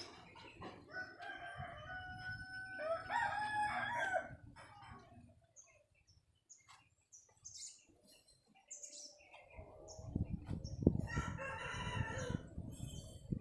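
A rooster crowing, once starting about a second in and again near the end, the second crow over a low rumble.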